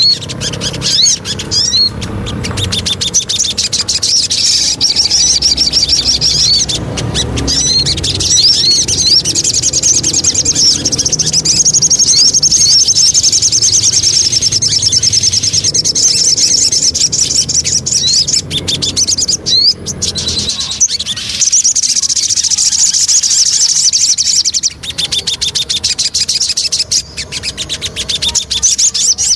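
Sogon songbird singing: rapid high chirps and fast rattling trills, with long unbroken trills in the middle and near the end of the stretch.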